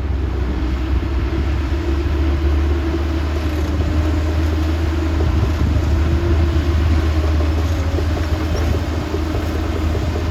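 Heavy diesel earthmoving machinery running steadily, a continuous low engine rumble with a faint steady hum above it.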